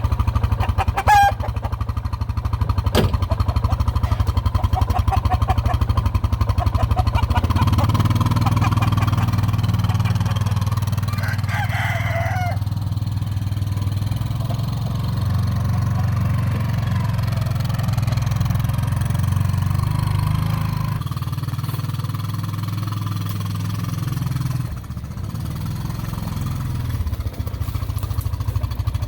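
A small engine runs steadily with a low hum, its note shifting about seven seconds in and dipping briefly near the end. A chicken gives a short squawk over it about twelve seconds in.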